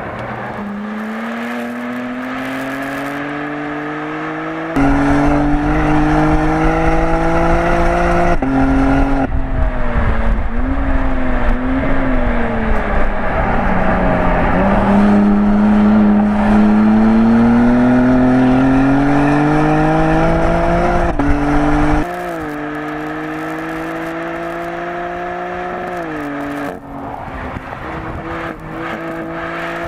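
BMW M3 (G80) twin-turbo inline-six engine at racing pace on a track. Its pitch climbs steadily under acceleration and drops back at gear changes and braking, several times over. From about five seconds in until about twenty-two seconds in it is louder, with a heavy low rumble of wind on the microphone.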